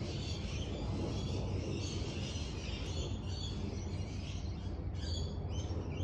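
Small birds chirping over a steady low rumble of outdoor background noise.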